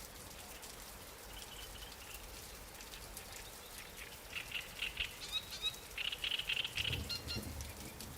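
Light rain falling steadily on water and lily pads, with fine patters of drops. From about halfway, an animal calls in quick runs of high chirps, and a low rumble comes in near the end.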